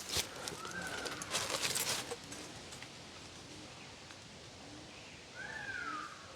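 A wailing call that slides down in pitch, heard twice, once near the start and once near the end, which the listener takes for a child next door rather than a bird. Between them, about a second in, a short patch of crunching and rustling from steps through undergrowth.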